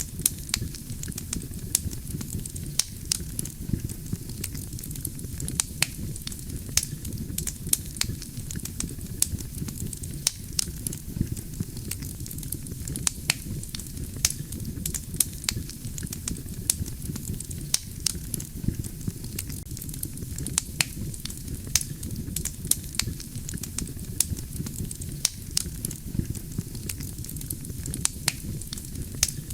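Wood campfire burning: a steady low rush of flame under frequent sharp crackles and pops from the burning logs.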